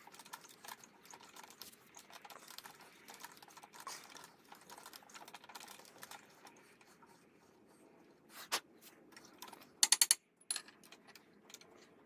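Light, irregular clicking and clatter of metal hand tools being handled and worked. A louder click comes about eight and a half seconds in, and a quick run of sharp clicks comes about ten seconds in.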